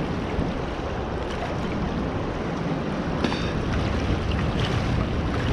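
Steady outdoor rushing noise of wind and moving river water, with a few faint clicks about three seconds in.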